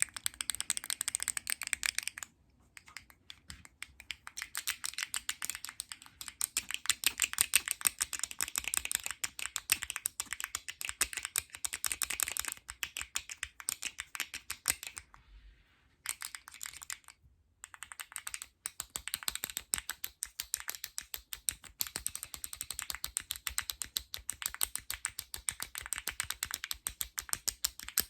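Fast, aggressive ASMR tapping and clicking with fingernails on plastic and cardboard packaging, a dense run of quick clicks that breaks off briefly a few times.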